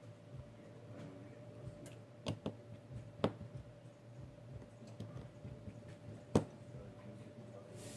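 A few light, sharp clicks and taps of small tools handling a Samsung Galaxy S6 edge phone during repair, the loudest about six seconds in, over a steady low hum.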